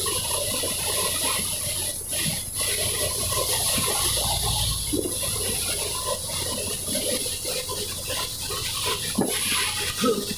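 Steady rushing noise of heavy rain and strong wind.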